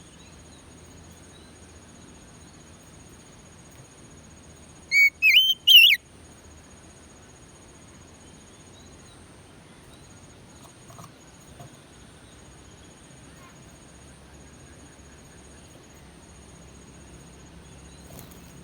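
Oriental magpie-robin giving one short burst of loud whistled song, three quick phrases about five seconds in. A faint steady high-pitched drone runs underneath.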